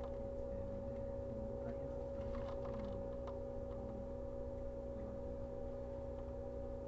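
Inside a 115 series electric train car standing still: a steady electrical hum from the on-board equipment, with a few faint ticks and clicks.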